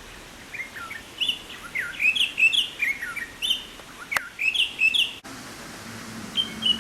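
Rüppell's robin-chat singing its complex song: a rapid run of varied whistled phrases, each with a different shape.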